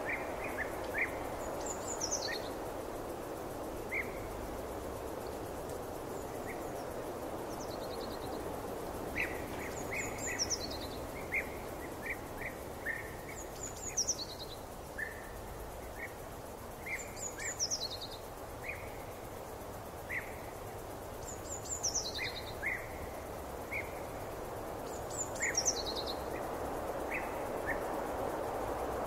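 Forest ambience: a songbird repeats a short, high, falling phrase every few seconds, with scattered short, lower chirps between, over a steady soft background rush.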